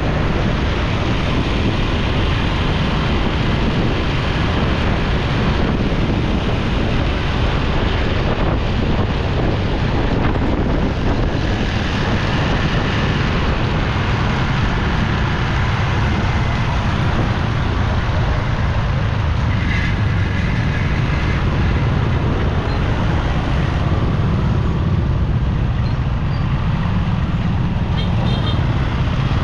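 Busy city road traffic heard from a moving motorcycle: a steady rumble of engines and tyres with wind noise. Short beeps sound about two-thirds of the way in and again near the end.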